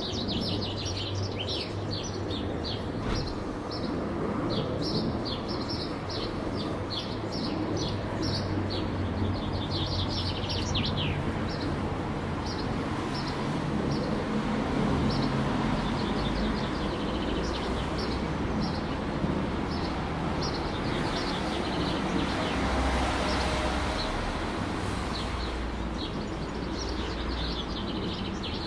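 Small songbirds chirping in many quick, short, falling notes, thick for the first ten seconds or so and more scattered after. Underneath runs a steady low rumble of city traffic.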